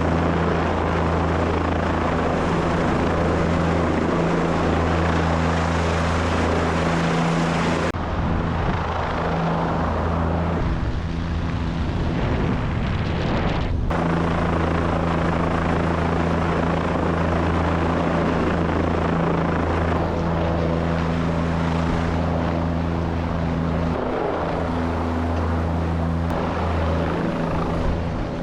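Turbine helicopter in flight, heard on board: steady low rotor and engine hum under a dense rush of air noise. The hum dips briefly twice, and there is one short click about midway.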